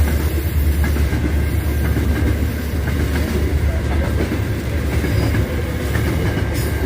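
Aurizon grain train rolling past on the rails with a steady low rumble.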